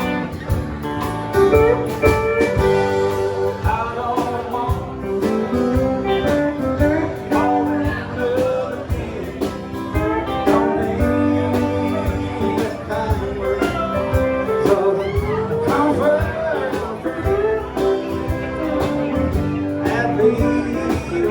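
Live country-rock band playing, with guitars over a steady drumbeat.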